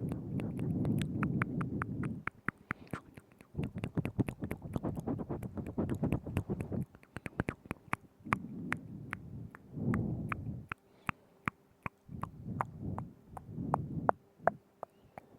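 Wet ASMR mouth sounds right at the microphone: a rapid run of sticky tongue and lip clicks and smacks, with stretches of low, muffled mouth noise underneath that come and go several times.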